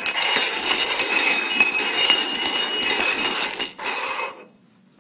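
Cups clinking and clattering on a hard surface as they are shuffled, stopping suddenly about four and a half seconds in.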